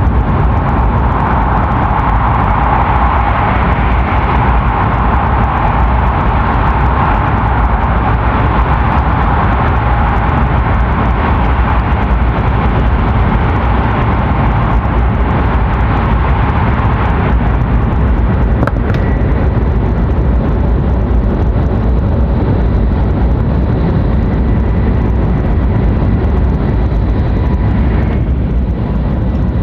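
E7/W7-series Hokuriku Shinkansen train running at speed, heard from inside the passenger car: a steady low rumble with a rushing noise that eases a little about halfway through, and a single faint click near the end.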